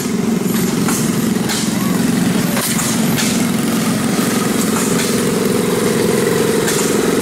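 Old stationary or tractor engines running steadily with a fast, even chugging, with sharp pops every second or so from exhaust strokes.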